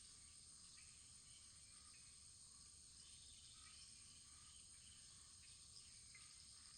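Very faint wood fire: scattered soft crackles over a steady high hiss.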